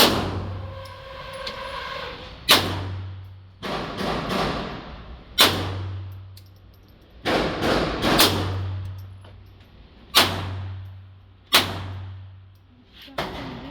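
Taurus TX22 .22 LR pistol fired in slow single shots: six loud reports two to three seconds apart, each ringing out briefly, with a few fainter shots in between.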